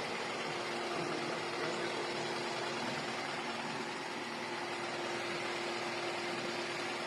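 Toyota Camry 2.4-litre four-cylinder engine idling steadily with a misfire.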